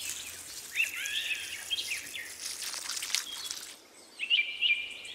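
Birds chirping: a short chirp repeated about three times a second, with other bird calls between, dropping away briefly about four seconds in before the chirping starts again.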